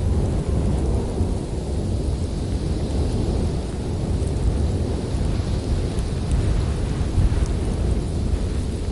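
Howling winter wind: a steady low rumbling rush with a thinner hiss above it, swelling and easing slightly without letting up.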